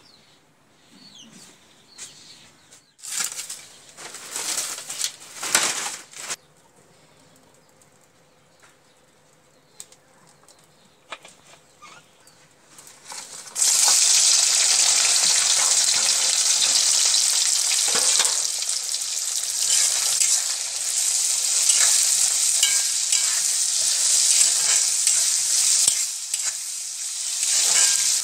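Chopped garlic and onion hit hot oil in an iron karahi about halfway through and sizzle loudly and steadily while being stirred with a spatula. Before that there are only a few short noises.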